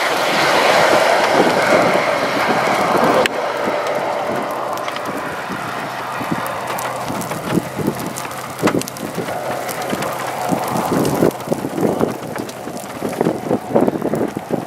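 Wind buffeting the microphone as a steady rushing noise, which drops suddenly about three seconds in and then comes in irregular gusty crackles and bumps.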